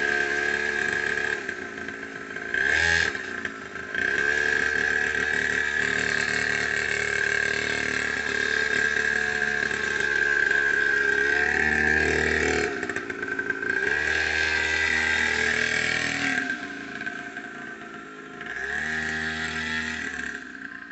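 A children's motocross bike's small motor running, its pitch rising and falling several times as the throttle is opened and released, with a steady high whine throughout.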